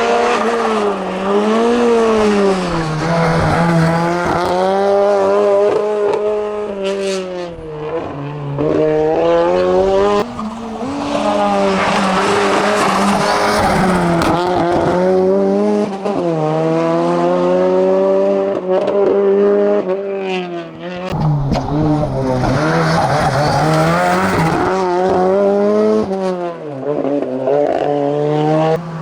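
Race car engine run hard up a hillclimb course, its note climbing with each burst of throttle and dropping back again and again through gear changes and lifts for corners.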